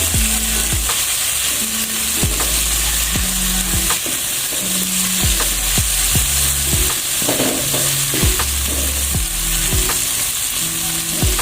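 Spice paste of ground shallots, garlic and chili sizzling in hot oil in a pan, with a steady hiss, and short scrapes and clicks as it is stirred.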